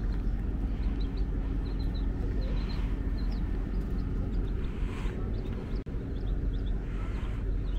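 Small birds chirping repeatedly in short high notes over a steady low rumble.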